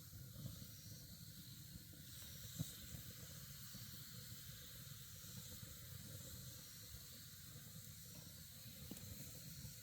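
Wood campfire burning with a faint steady hiss, a sharp crackling pop about two and a half seconds in and a fainter pop near the end.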